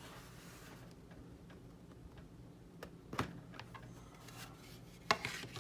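Light, scattered clicks and taps of small screws, tools and plastic model parts being handled, with a sharper click about three seconds in and another about five seconds in, over a faint steady hum.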